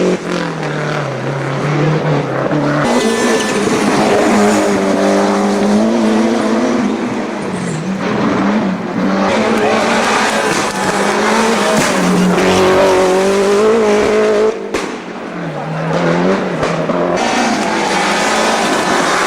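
Rally car engines at full throttle, the pitch climbing and then dropping back with each gear change over and over, with a brief lull about fifteen seconds in.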